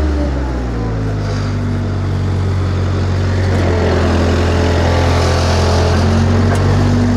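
Skid steer engine running steadily under work, its speed dipping in the first second and shifting again near the end.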